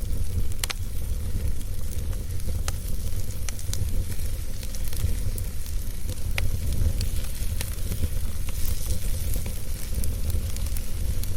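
Wood fire burning with a steady low rumble and hiss, broken by sharp crackles and pops, one of the strongest about a second in.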